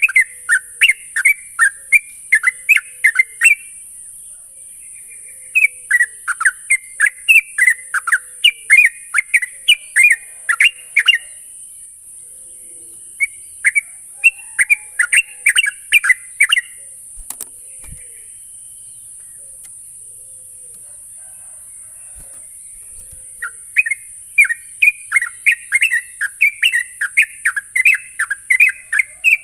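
Yellow-vented bulbul (trucuk) singing in runs of rapid bubbly chirps, each run a few seconds long with pauses between, the longest pause a little past the middle. A steady high hiss runs underneath.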